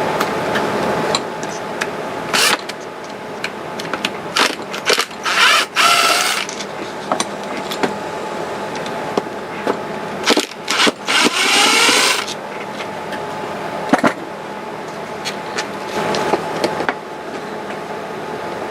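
Hand-tool and metal-part clicks and knocks from a table saw motor being taken apart, with two short stretches of a wavering mechanical whir about five and eleven seconds in, over a steady background hum.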